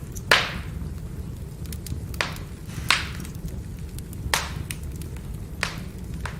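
Burning firewood crackling, with five sharp pops a second or so apart, the first the loudest, over a steady low rumble of the fire.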